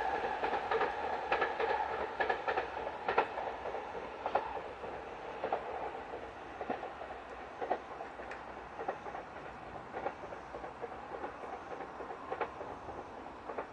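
A train running along the Tokaido Main Line and moving away, its wheels clicking over the rail joints in irregular clusters. The sound fades steadily and the clicks grow sparser and fainter.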